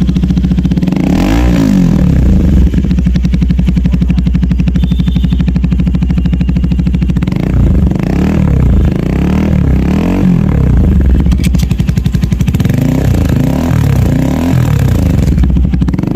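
KTM Duke 390's single-cylinder engine running loud through an aftermarket Akrapovic exhaust: a rev about a second in, then a run of quick throttle blips through the second half.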